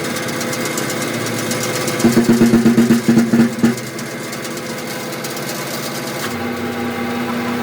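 Engine running steadily, with a louder stretch of rapid knocking pulses from about two seconds in that lasts about a second and a half.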